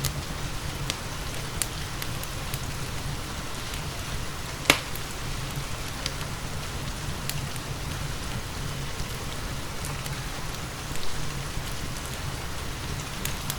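Steady rain with a wood fire crackling in a fireplace: scattered sharp pops, one loud pop a third of the way in, over a constant low rumble.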